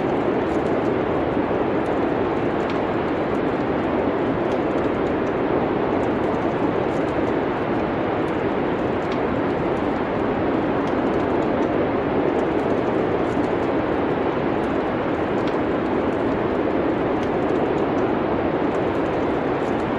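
Steady rushing ambience, like wind, with faint, scattered crackles of a wood fire now and then.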